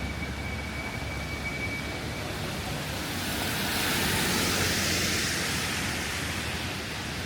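Rainy street ambience with a vehicle passing on the wet road: a spray hiss from its tyres swells to a peak about midway and then fades. A faint, thin steady high tone dies away about two seconds in.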